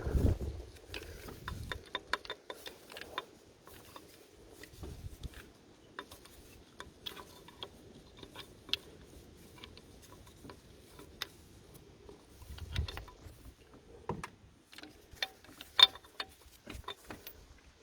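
Scattered light metal clicks and taps of engine parts and tools being handled while a diesel injector is worked back into the cylinder head, with a thump at the start and a sharper click near the end.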